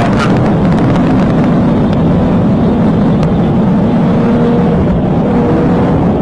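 Vehicle engine running hard at speed under heavy road and wind noise, steady throughout, as in a high-speed pursuit.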